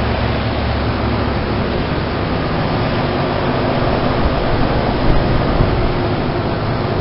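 Outdoor heat pump units running in heating mode: a steady rush of condenser fan air over a low compressor hum. The hum is strongest for the first second or so, then eases.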